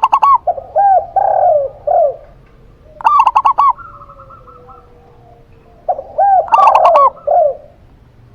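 A zebra dove and a spotted dove cooing in turn. The cooing comes as three phrases about three seconds apart. Each phrase is a quick run of higher notes, and in two of them slower, lower coos follow.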